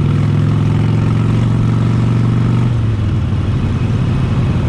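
Harley-Davidson Sportster 72's 1200 cc Evolution V-twin running under way through Vance & Hines side shots exhaust, with a Screaming Eagle heavy breather intake. It is a steady growl whose note breaks up about three seconds in.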